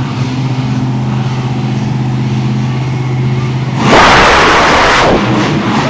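Monster truck engine running with a steady low note, then a sudden loud, noisy blast about four seconds in that lasts just over a second.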